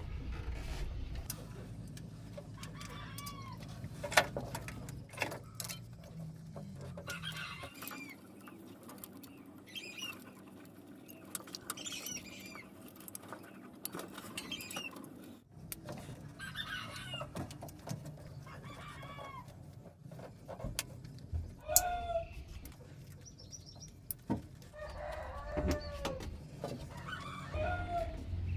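Chickens clucking and calling repeatedly, with a few sharp clicks, over a low hum that stops about eight seconds in and comes back about halfway through.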